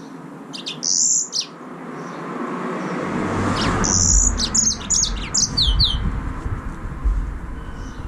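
Yellow-fronted canary (green singing finch) giving short high chirps: a couple about a second in, then a quick run of downward-slurred notes around four to six seconds, over a swelling hiss and a low rumble.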